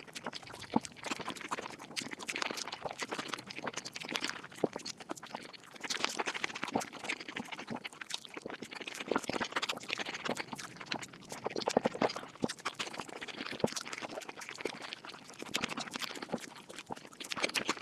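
Eating sounds sped up about five times: chewing and mouth noises turned into a rapid, continuous stream of clicks and smacks.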